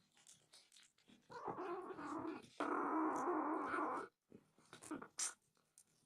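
Don Sphynx cat growling angrily in two long calls, the second louder.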